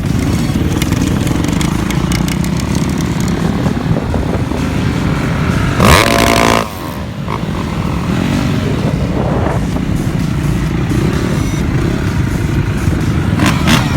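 Motorcycle engines running steadily, with a brief, loud pitched blast about six seconds in.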